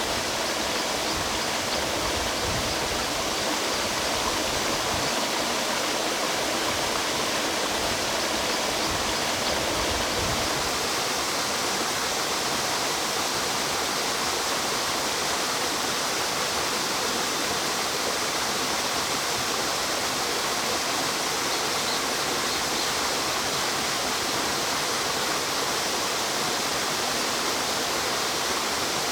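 Mountain stream water rushing over rocks: a steady, even rush with no break.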